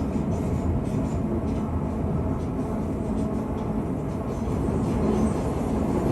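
Electric suburban train running between stations, heard inside the carriage: a steady low rumble of wheels on the track with a faint steady hum.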